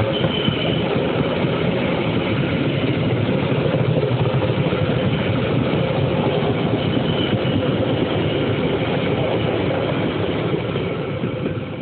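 Passenger coaches of a local train rolling past at close range: a steady rumble of steel wheels on the rails, with a faint high wheel squeal twice. The sound fades near the end as the last coach goes by.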